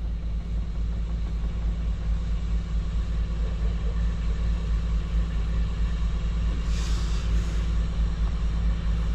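Diesel truck engine idling steadily with a low rumble, running to supply air to a dead truck's brake system. About seven seconds in there is a brief double hiss of air.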